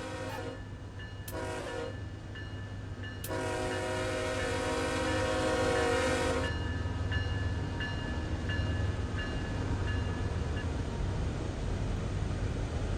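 Locomotive air horn with several chimed tones sounding in a pattern of a long blast ending, a short blast, then a long blast of about three seconds, the close of the long-long-short-long grade-crossing signal. A steady low rumble of the train runs underneath.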